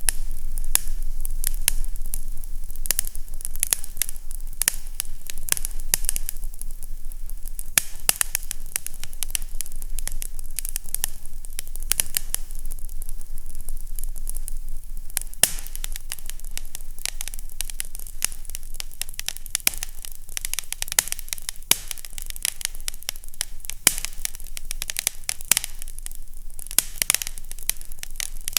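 Fireplace fire crackling: a dense, irregular run of sharp pops and crackles over a steady low hum.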